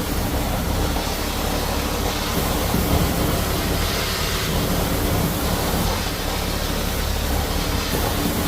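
Floor-cleaning machine running steadily on travertine tile: a continuous low rumble with hiss.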